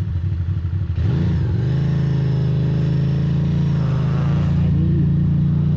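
Ducati Monster's V-twin engine with a lumpy, pulsing beat at low revs. About a second in, the revs rise as the bike accelerates, then the engine runs at a steady note that climbs slightly near the end.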